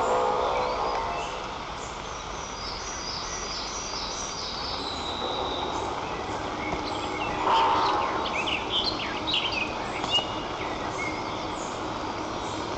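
Small songbirds chirping and trilling in the woods around the nest over a steady background hiss. A brief louder call, lower in pitch, comes at the start and again about halfway through.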